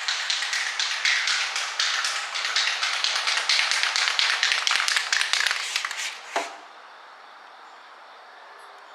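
Aerosol lubricant spray hissing in quick, pulsing spurts into a sticky car window crank mechanism, for about six seconds, ending with a short knock.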